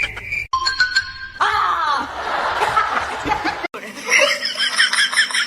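Laughter over music, with sharp cuts between short clips about half a second in and again near the four-second mark.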